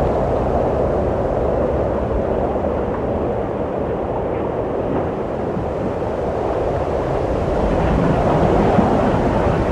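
Wind blowing with a steady rushing sound that swells a little near the end.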